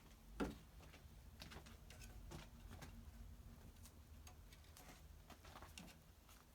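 Kittens chewing on a mouse: faint, irregular clicks and crunches, with one sharper crack about half a second in.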